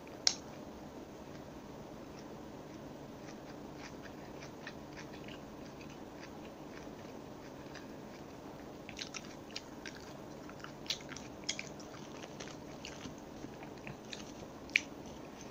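Close-miked chewing of crispy breaded chicken nuggets: soft crackly crunches and small mouth clicks over a low steady background. There is a sharp click at the very start, a run of crisp crackles in the middle part, and another sharp click near the end.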